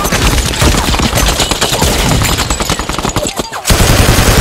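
Heavy exchange of automatic rifle fire, overlapping shots and rapid bursts, with a brief lull about three and a half seconds in before loud firing starts again.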